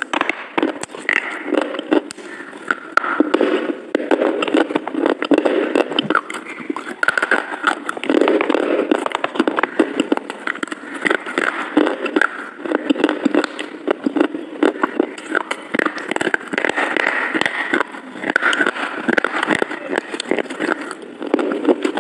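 Close-miked eating sounds: a person chewing and crunching food, with dense wet mouth clicks and crackles.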